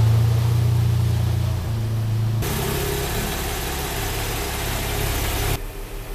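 Porsche 911's flat-six engine running at low revs as the car is driven slowly in. A steady hiss joins about two and a half seconds in, and the engine sound cuts off suddenly near the end.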